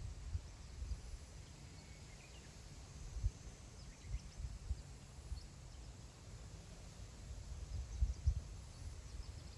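Wind gusting on the microphone as a low rumble that swells and eases, strongest near the start and again near the end. Faint short bird chirps come through it now and then.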